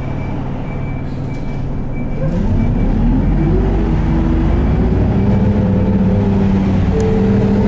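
Isuzu Erga city bus's diesel engine heard from inside the cabin, running low and steady, then revving up about two seconds in as the bus pulls away, its pitch rising and settling into a steady run. A soft regular ticking sounds over the first two seconds and then stops.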